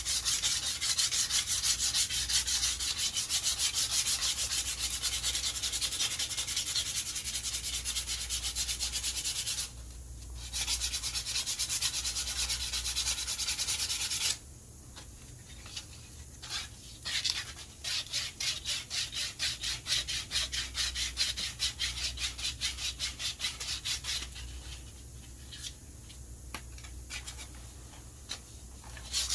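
Sandpaper, 100 grit, rubbed quickly back and forth along a wooden walking stick, in fast even strokes. The strokes stop briefly about ten seconds in, go on hard until about halfway, then come softer and broken up by short pauses.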